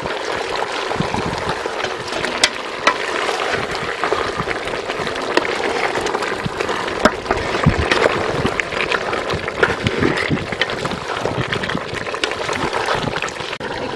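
Meat and vegetables sizzling steadily as they fry in a metal pot over a wood fire while they are stirred, with occasional sharp clicks.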